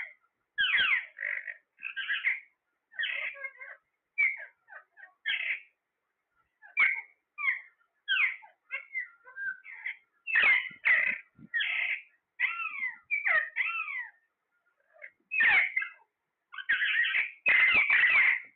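Parrot calling: a string of short, sharp squawks and chirps with some falling whistles, separated by brief pauses and coming faster and louder near the end.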